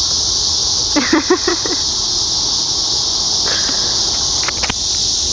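Loud, unbroken drone of insects (bugs) chirring together in a steady high hiss.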